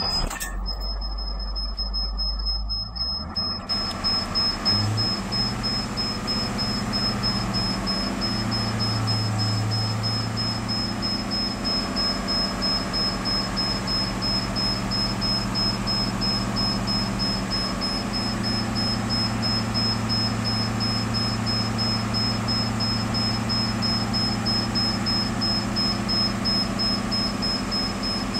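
School bus engine running steadily while its air compressor builds brake air pressure back up to normal. There is a deep low rumble for the first few seconds, then an even running hum.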